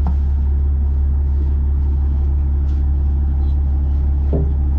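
Heavy diesel engine idling steadily, a low even drone.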